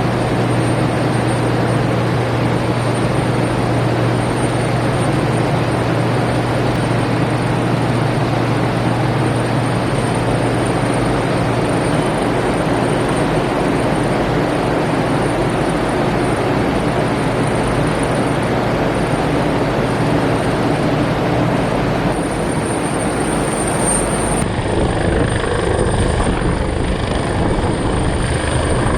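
Helicopter running close by: steady rotor noise with a thin high turbine whine and a low hum, the sound shifting about three-quarters of the way through.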